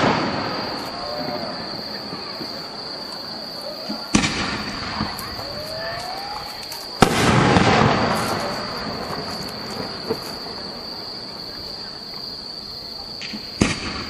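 Aerial firework shells bursting: the echo of one bang fades at the start, then a sharp bang about four seconds in, a louder one with a long echoing decay about seven seconds in, and a quick pair of cracks near the end. Spectators' voices can be heard between the bangs.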